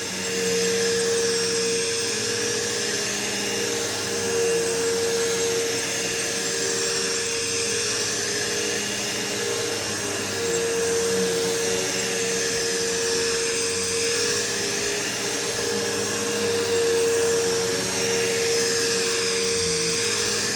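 Bissell PowerForce bagless upright vacuum running while vacuuming carpet: a steady motor whine over a broad rush of airflow, its level wavering slightly.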